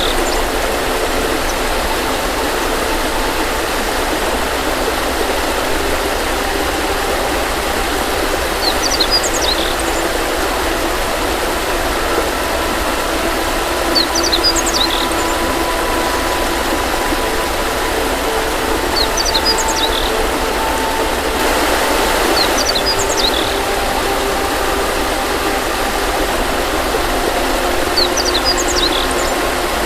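A steady rushing noise with a small bird chirping in short high clusters about five times, roughly five seconds apart. Faint held tones of soft ambient music run underneath.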